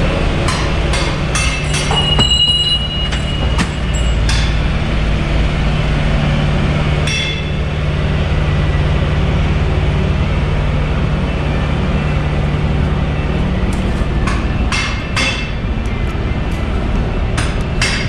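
Car-workshop noise: a steady low mechanical hum from a running machine or engine, with clusters of sharp metallic clinks and clanks of tools on metal in the first few seconds, once around seven seconds in, and again near the end.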